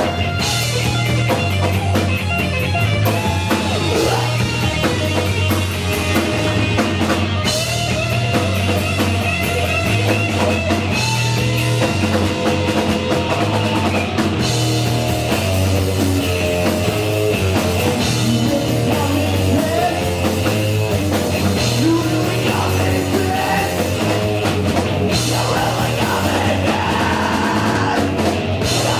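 Live punk rock band playing: distorted electric guitar, bass, drum kit and shouted vocals, loud and steady.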